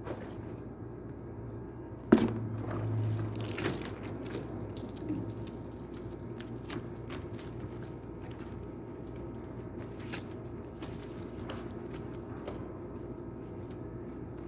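Water dripping and splashing during car washing, over a steady low hum. A sharp knock about two seconds in is the loudest sound, followed by a short rush, then scattered drips and small ticks.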